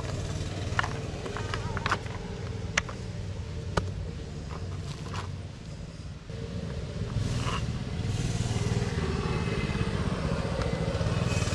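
Plastic clicks and snaps of a car's cabin air filter and its housing behind the glove box being handled, over a steady low hum. From about six seconds in, a louder, hissing rush joins the hum.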